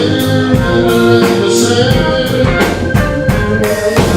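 Live blues band playing between sung lines: guitars, keyboard, bass and drums, with a steady drum beat under held notes.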